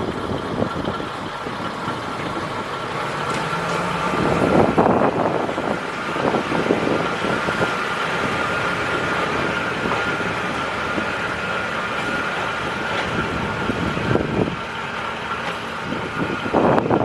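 Diesel railcar engine running steadily, with a held whine, swelling louder about four seconds in as the railcar departs.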